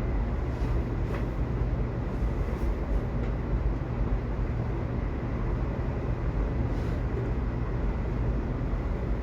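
Subway train running: a steady low rumble and rail noise, with a few faint clicks.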